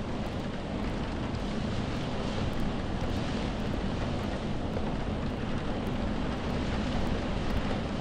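Steady rain ambience: an even hiss with a deep low rumble underneath, unchanging throughout.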